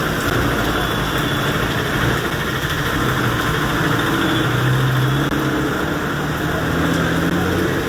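A motor vehicle's engine running at low revs over a steady rushing hiss.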